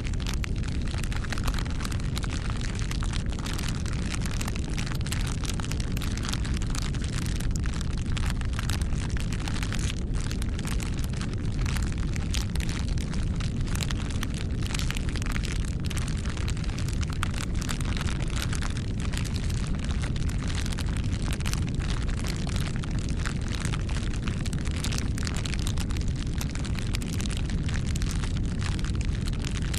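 Bonfire burning: a steady low rumble of flames with frequent sharp crackles and pops.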